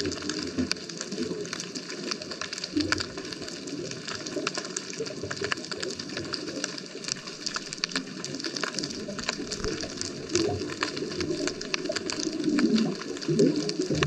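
Underwater ambience on a scuba dive: a steady crackle of small clicks over a low, muffled bubbling, with louder bubbling swells about ten seconds in and near the end.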